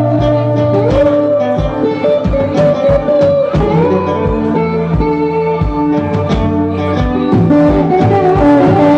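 Live band playing a slow, bluesy song: a slide guitar gliding up and down between held notes over a steady drum beat and bass.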